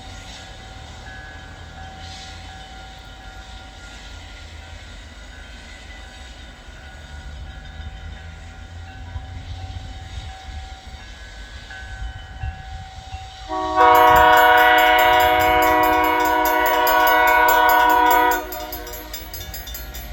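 Great Lakes Central Railroad diesel locomotive approaching with a low rumble that slowly grows, then its horn sounding one long blast of several notes at once, starting about two-thirds of the way in and lasting about five seconds.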